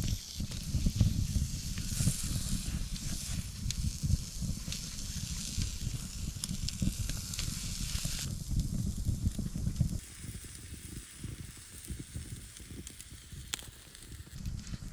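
Food sizzling in a hot pan over an open campfire, a steady hiss with scattered crackles, under a low rumble. The sizzle dies down about eight seconds in and the rumble drops about two seconds later.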